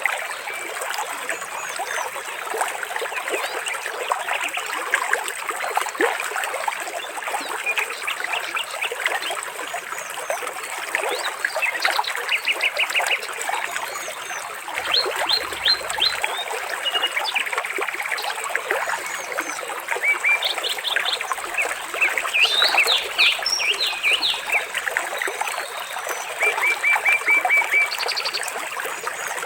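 Trickling water runs steadily under a chorus of birds chirping and singing, with several quick runs of short repeated high notes.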